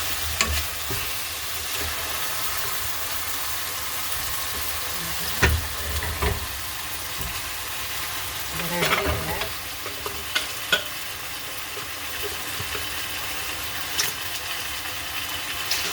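Chicken thighs sizzling steadily in hot oil in a pan, with a few knocks and scrapes of a stirring utensil against the pan.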